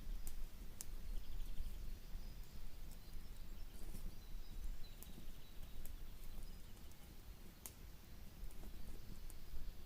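Outdoor ambience: a steady low rumble with scattered sharp clicks and faint, high, repeated chirps.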